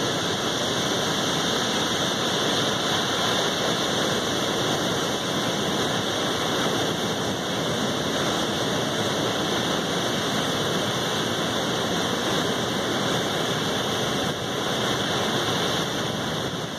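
Turbulent release water pouring out below a dam, a loud, steady rush with no breaks.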